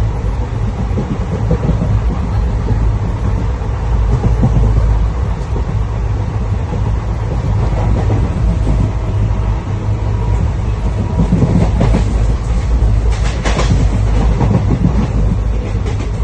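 A train running along the rails: a loud, steady, heavy rumble, with a brief louder stretch of rattling about thirteen seconds in.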